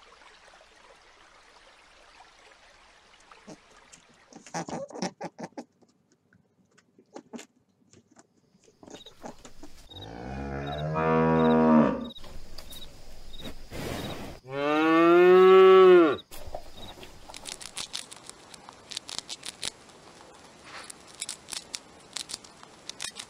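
Cow mooing twice, two long low calls a few seconds apart, the second the louder. Near the end come rapid small crunching clicks of a hamster gnawing food.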